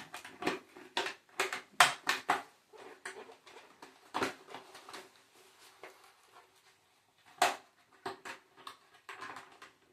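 Plastic clicks and knocks of a motorcycle helmet visor being pushed and worked onto its side pivot mount. A cluster of sharp clicks comes in the first two and a half seconds, then scattered lighter ones, with another sharp click about seven and a half seconds in.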